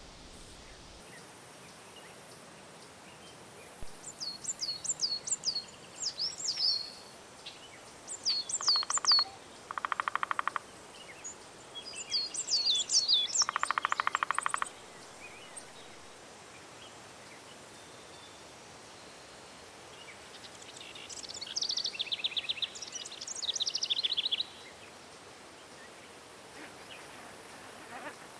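Songbirds singing in short bursts of quick, high notes with pauses between, some phrases joined by a lower rapid rattling trill, over a steady faint hiss of countryside background.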